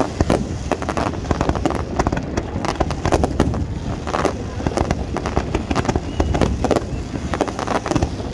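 Fireworks display: rockets launching and shells bursting in a rapid, continuous run of bangs and crackles.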